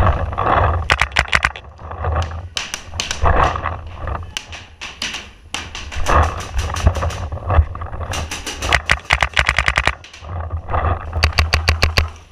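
Paintball markers firing in rapid strings of shots, several bursts with short gaps between them; the fastest string, a little past the middle, runs at about ten shots a second.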